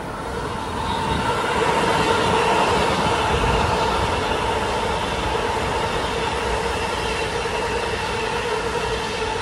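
Long Island Rail Road train running through the station: a steady rumble of wheels on rail with a steady pitched whine over it, growing louder about a second in.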